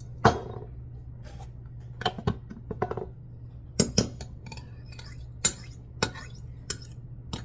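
Glass bowls and utensils clinking and knocking on a kitchen counter: about ten separate sharp knocks spread irregularly, the loudest about a quarter second in, over a low steady hum.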